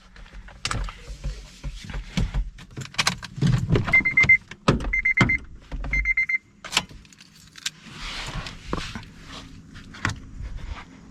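Inside a parked 2007 Honda Civic Si just after shutdown: scattered clicks, knocks and rattles of handling in the cabin, with a high electronic chime beeping three times about a second apart in the middle, and a soft rush near the end.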